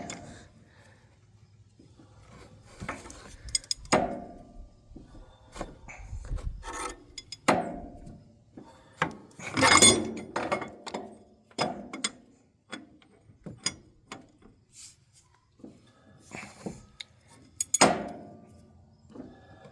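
Irregular metallic clinks, knocks and scraping of a wrench and hand tools on an engine as its crankshaft is turned over by hand. The loudest knocks come about halfway through and again near the end.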